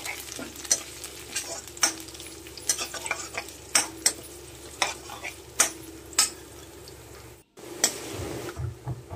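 Tempering of garlic, urad dal, cumin and curry leaves sizzling in a little oil in a kadai, stirred with a steel ladle that scrapes and clicks against the pan. The sound cuts out briefly about seven and a half seconds in.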